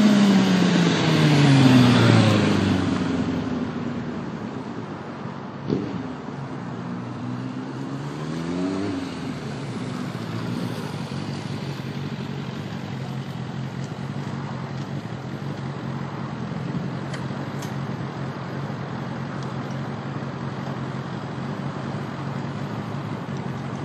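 1998 Suzuki GSX750F's inline-four engine winding down from high revs over the first few seconds, then a sharp knock about six seconds in and a short rev that rises and falls around eight seconds in, before it settles into a steady idle.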